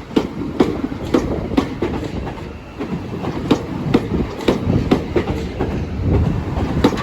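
Two coupled Southeastern Class 395 Javelin electric units passing at close range, their wheels clacking over the rail joints about twice a second over a steady rumble.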